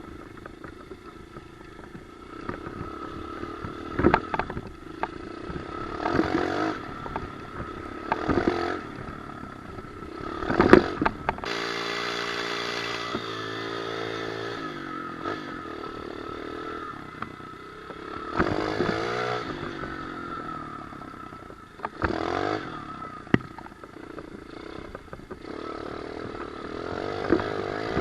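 Pit bike engine revved in repeated short bursts, rising and falling in pitch, with a steadier stretch of running partway through. A few sharp knocks and clatters come with some of the bursts.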